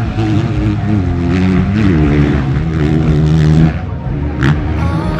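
Motocross dirt bike engines revving hard, the pitch climbing and falling several times, with the engine note dropping away shortly before the end.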